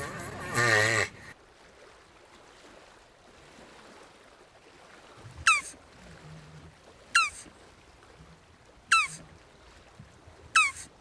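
A jabuti tortoise's wavering, drawn-out call about a second long opens the stretch. It is followed by four short, high chirps that fall quickly in pitch, evenly spaced about every second and a half.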